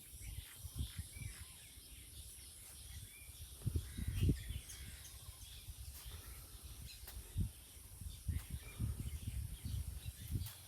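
Outdoor rural ambience: faint bird chirps over a steady high hiss, with irregular low rumbles and thumps, the strongest about four seconds in and again past seven seconds.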